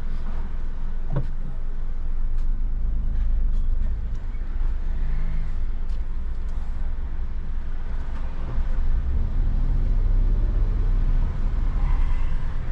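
Steady low road and engine rumble of a car driving, heard inside the cabin, with scattered faint ticks.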